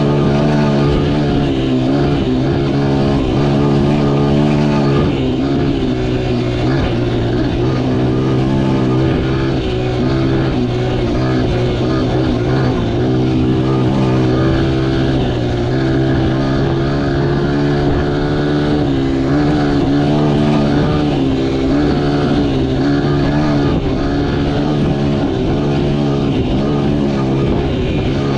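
Honda XR100R dirt bike's single-cylinder four-stroke engine running under way, its pitch rising and falling with the throttle.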